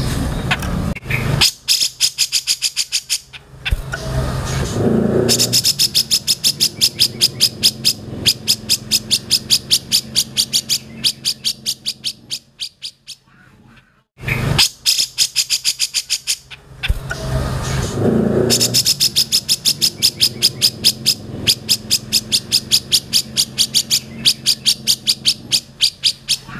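Grey-cheeked bulbul (cucak jenggot) song: long runs of rapid, sharp chattering notes, about seven a second. There is a brief silent gap about halfway, after which the same passage plays again, as in a looped mastering recording.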